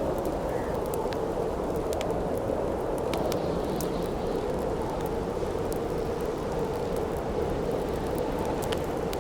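Steady howling wind with a campfire crackling, its sharp pops scattered irregularly over the wind.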